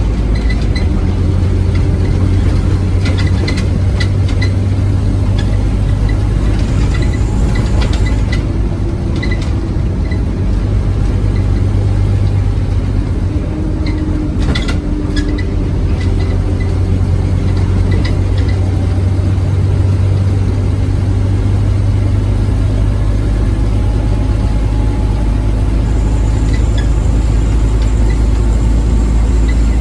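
Scania OmniCity bus engine running under way, a steady low drone that shifts a little in pitch, with scattered clicks and rattles over it.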